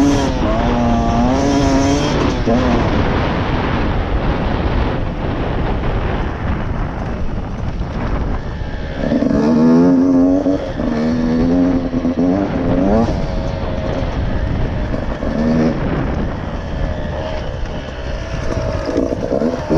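Beta 125RR two-stroke dirt bike engine running hard under changing throttle. Its pitch wavers up and down, and the note stands out most strongly near the start and again about halfway through, over steady rushing noise.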